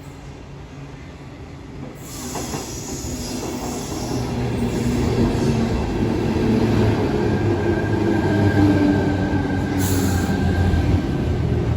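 Sydney Trains electric train, sets T48 and T7 coupled, pulling into the platform. Its rumble builds from about two seconds in, with a steady high squeal as it slows in the second half and a brief hiss near the end.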